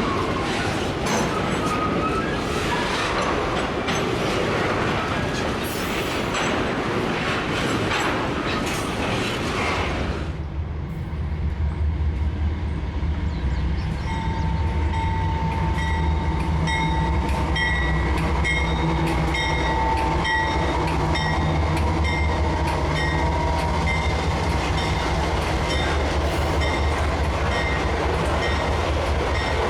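Freight train wagons rolling past on the rails with a loud rushing clatter of wheels. About ten seconds in it switches abruptly to a steady low diesel locomotive engine drone with several steady high tones above it.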